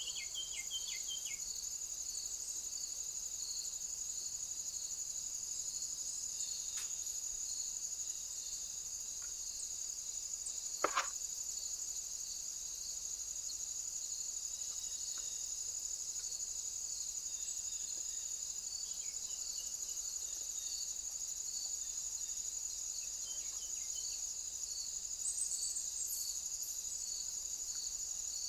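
Insects trilling in a steady, continuous high chorus, with a few short chirps from a bird near the start and again around the middle, and a single sharp knock about eleven seconds in.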